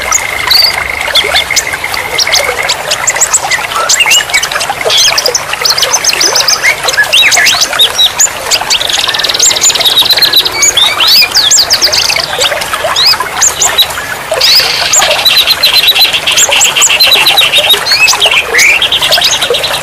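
A dense chorus of several kinds of songbirds chirping, whistling and trilling over a steady hiss of running water. A held whistle-like note sounds for the first three seconds, and rapid buzzy trills come near the middle and again through the last five seconds.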